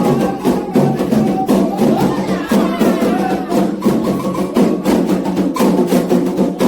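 Candomblé ritual drumming: atabaque hand drums with a struck bell or woodblock-like part playing a steady, quick rhythm, with voices singing over it.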